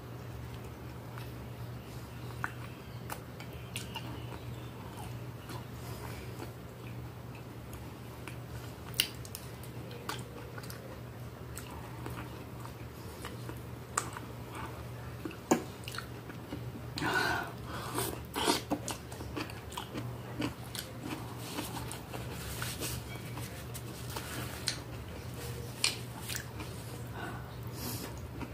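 Close-up chewing and mouth sounds of a person eating stewed beef and vegetables, with scattered sharp clicks. A steady low hum runs underneath.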